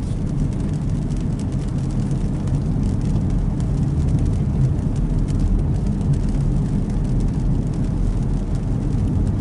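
Car driving, heard from inside the cabin: a steady low rumble of engine and tyre noise, with faint scattered ticks.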